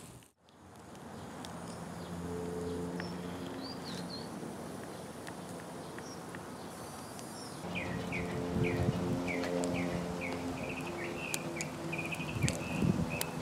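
Outdoor background noise with a low steady hum and a few scattered bird chirps. From about eight seconds in, a bird calls a run of quick repeated chirps, about three a second.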